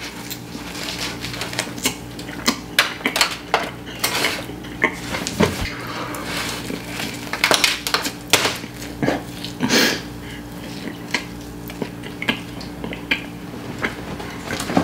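Close-miked eating of garlic naan: biting, tearing and chewing, with many irregular wet mouth clicks and smacks. A steady low hum runs underneath.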